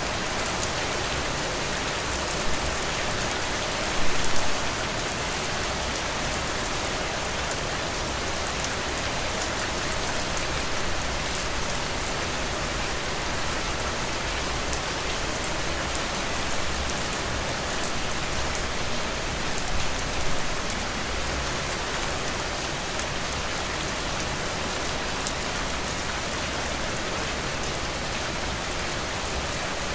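Heavy rain falling steadily in a dense, even patter. There is a brief louder surge about four seconds in and a smaller one around twenty seconds.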